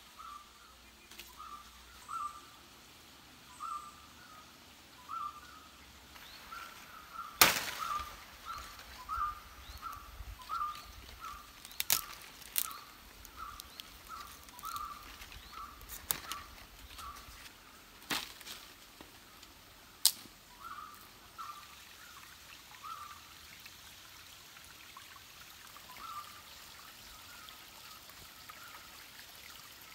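A bird calling in short, evenly repeated chirps, about two a second, then more sparsely in the second half. Several sharp snaps of a twig being cut and broken break in, the loudest about seven seconds in.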